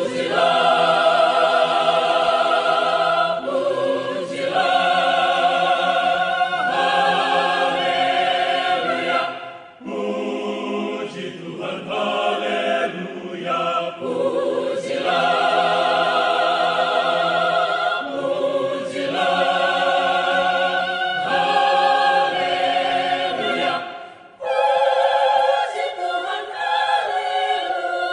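Mixed adult choir singing in full, sustained chords, with short breaks between phrases about ten seconds in and again about twenty-four seconds in.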